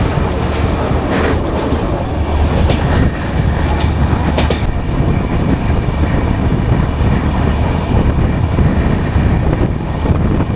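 Passenger train rumbling along slowly, heard from inside the coach, with a steady low hum and a few wheel clacks over rail joints in the first half.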